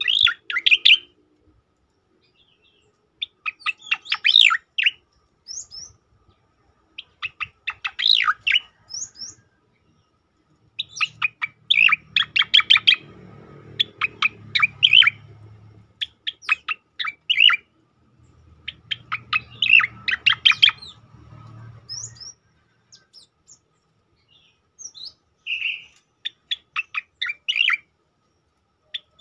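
Cicakoreng (striated grassbird) singing in rapid-fire bursts of sharp, fast chirping notes, each burst lasting a second or two and repeating every few seconds. A faint low hum runs under two of the bursts midway through.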